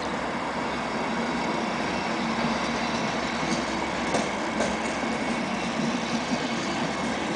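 Passenger train pulling out of a station, its coaches rolling slowly past with a steady mechanical hum. From about halfway, sharp wheel clicks on the rail joints begin, coming more often as it picks up speed.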